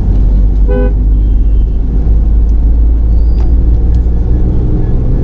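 Car engine heard from inside the cabin, pulling in third gear under acceleration with a strong steady low drone: the peak engine noise that tells the driver the gear has reached its top speed and it is time to shift up. A short car-horn toot sounds about a second in.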